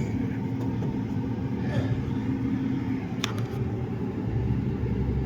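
Dodge Dakota's V8 engine running with a steady low rumble, which grows heavier about four seconds in. There is a single click a little after three seconds.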